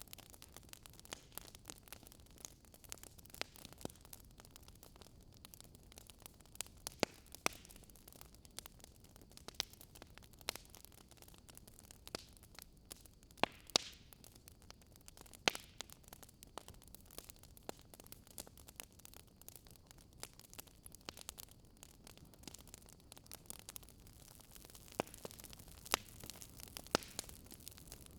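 Wood fire crackling in a fireplace: irregular sharp pops and snaps over a faint steady hiss.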